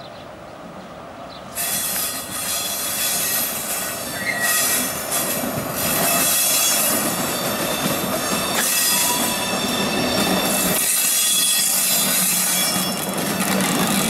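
SNCF Fret BB 75000-class diesel locomotive and grain hopper wagons moving slowly on curved track, the wheels squealing against the rails with several steady high-pitched tones. The noise comes up sharply about a second and a half in, and the locomotive's low engine sound grows near the end as it passes close.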